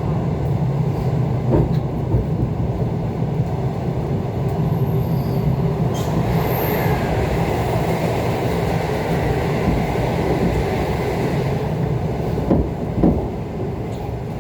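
ET2 electric multiple unit heard on board while running between stations: a steady rumble of wheels on the track with a low hum and a few sharp knocks. A faint high squeal from the wheels comes in around the middle and fades out.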